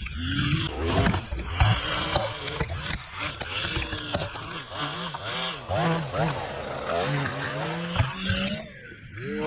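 Chainsaw engine running and revving, its pitch repeatedly rising and falling, with rough knocking noise in the first couple of seconds.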